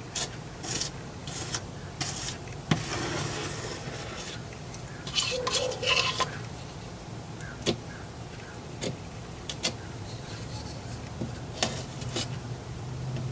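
Metal putty knife spreading and scraping spackling compound: irregular short scrapes and taps, with two longer scraping strokes, over a low steady hum.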